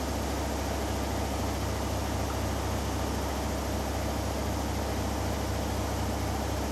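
Hoover Dynamic Next washing machine in its final spin with a 6 kg cotton load, the drum turning fast and steadily. It gives a constant low hum under an even whooshing noise.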